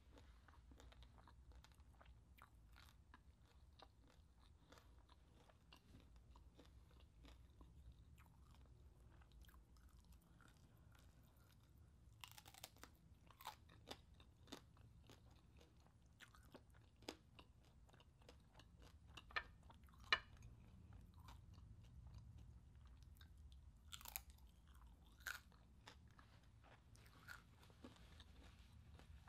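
A person chewing crunchy crispy pork close to the microphone: a steady run of small crackles, with a few sharper, louder crunches scattered through, the sharpest about twenty seconds in.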